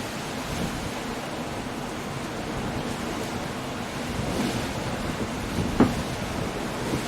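Storm surf and wind: a steady wash of breaking waves and gusting wind that swells a little past halfway, with one sharp thump about six seconds in.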